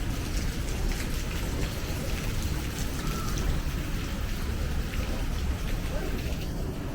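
Heavy rain falling, with many individual drops ticking sharply on nearby surfaces over a steady low rumble.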